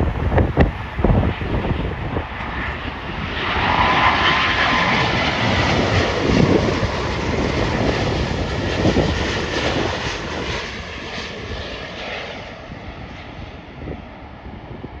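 Jet airliner passing on its landing approach: its engine noise swells about three and a half seconds in, holds with a thin whine for several seconds, then fades away. Wind buffets the microphone at the start.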